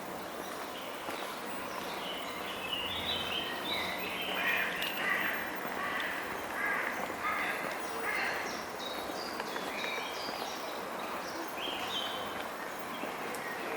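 Songbirds chirping and calling in short, quick whistled notes over a steady background hiss of distant city noise.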